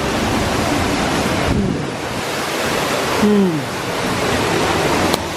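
Waterfall's steady rushing roar, an even hiss spread from low to very high. Two short falling tones come through it about a second and a half and three seconds in, and there is a sharp click near the end.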